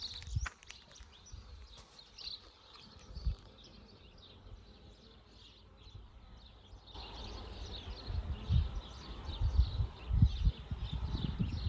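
Bees buzzing around a wild colony. About two-thirds of the way through the sound grows louder and fuller, with irregular low rumbling bursts on the microphone.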